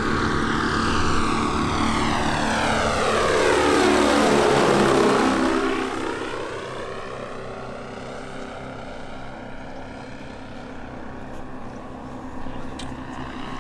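Radio-controlled quarter-scale Beech-18 model airplane's twin propeller engines passing by in a flyby. The sound grows to its loudest about five seconds in as the plane goes past, falls in pitch, then fades and stays steady as it flies away.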